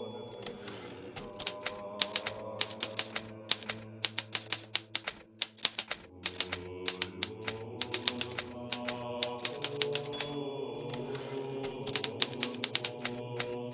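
Hermes Baby portable manual typewriter being typed on at a steady, uneven pace of key strikes. A short high ring sounds right at the start and again about ten seconds in, each followed by a brief pause in typing, like the margin bell before a carriage return. A soft pitched music bed runs underneath.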